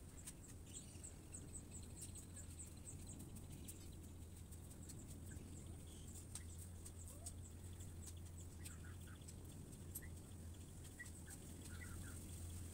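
Faint birdsong: a quick run of thin, high notes in the first few seconds, then scattered short chirps later on, over a steady low hum.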